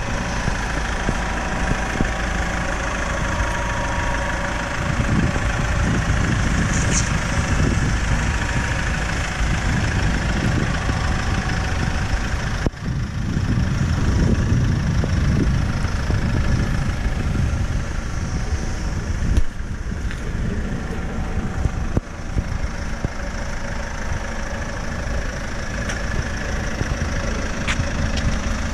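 A Ford Mondeo Mk IV estate's engine idling steadily, heard from outside the car. From about five seconds in, irregular low rumbling gusts of wind noise hit the microphone.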